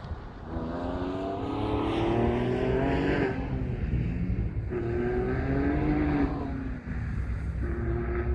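Porsche Cayman R's flat-six engine accelerating hard: its pitch climbs for about three seconds, drops away, climbs again, then falls and picks up once more near the end as the car shifts or lifts and gets back on the throttle.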